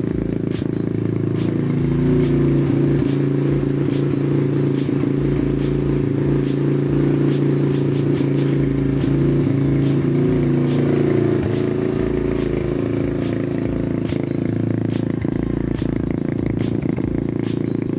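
Skyteam PBR 125 minibike's 125 cc single-cylinder four-stroke engine running at idle. The revs rise slightly about two seconds in, are held there, and settle back to idle after about eleven seconds.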